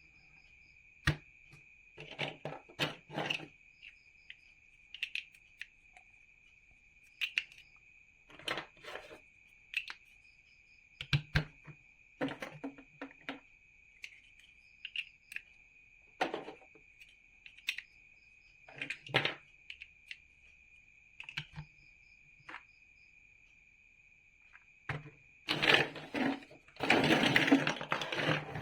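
Plastic toy building bricks being handled and pressed together: scattered sharp clicks and short rattles, with a longer bout of rattling and shuffling near the end.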